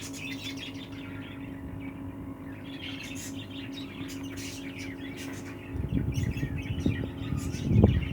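Budgerigars chirping over a steady electrical hum. From about six seconds in, irregular rustling and knocking from close handling.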